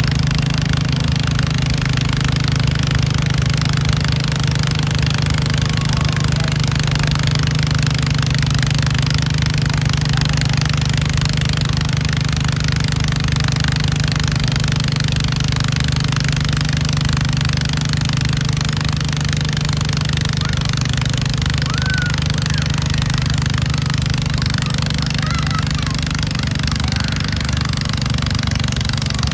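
Farm tractor engine running steadily with an even, unchanging throttle.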